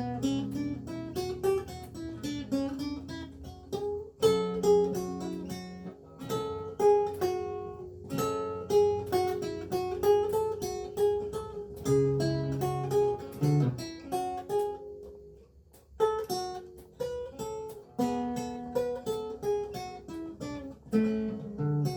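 Renaissance lute with gut strings played solo: plucked melody notes over bass notes and chords, each note decaying quickly, with a brief pause about fifteen seconds in before the playing resumes.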